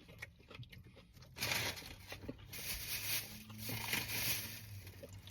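A paper sandwich wrapper rustling and crinkling as it is handled and opened. The rustling comes in uneven bursts, starting about a second and a half in and lasting a few seconds.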